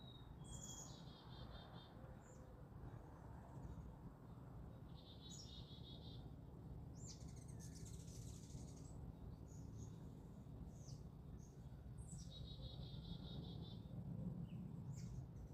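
Wild birds singing outdoors: the same short, rapidly pulsed high phrase comes three times, with scattered brief chirps in between, over a faint, steady low background noise.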